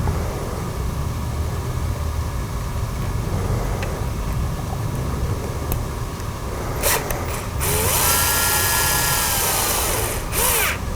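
A handheld power drill/driver runs for about two seconds near the end with a steady whine that sags as it stops, preceded by a brief blip and followed by another short burst. Under it is a steady low rumble.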